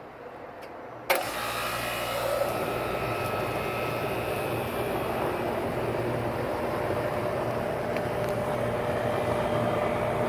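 Old Goodman air-conditioning condenser starting up: a sharp click about a second in as the contactor pulls in, then the compressor and condenser fan running steadily with a low hum.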